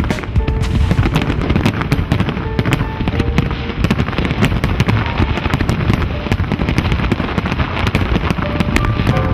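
Fireworks display going off in a dense, continuous barrage: many bangs and crackles overlapping, several every second.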